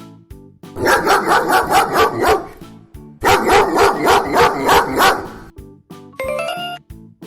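A dog barking in two quick runs of about two seconds each, over light background music. Near the end comes a short rising run of notes.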